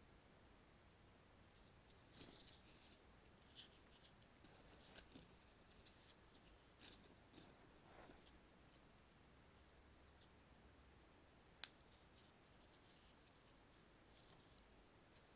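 Paper being handled for 3D origami: faint, scattered crinkles and rustles through the middle, then one sharp click near the end.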